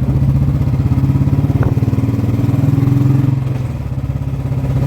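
Royal Enfield Bullet 350 single-cylinder engine running through a loud aftermarket exhaust while riding, its firing pulses steady. It eases off briefly a little past three seconds in, then picks up again.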